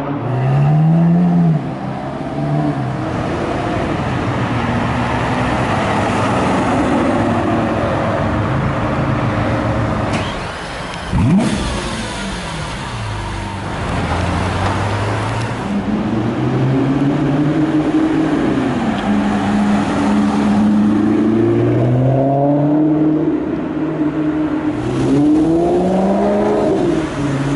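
Sports car engines revving and accelerating away one after another, the revs rising and falling repeatedly; among them is a Lamborghini Aventador's V12 pulling away. The sound breaks off sharply about eleven seconds in, then the engine sounds pick up again.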